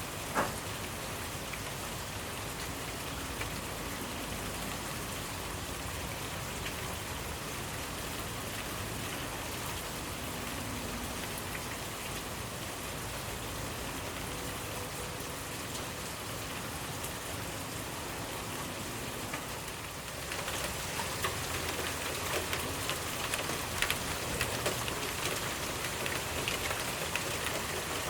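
Steady rain falling, with individual drops ticking on a surface. About 20 seconds in it becomes louder, with more distinct drop hits.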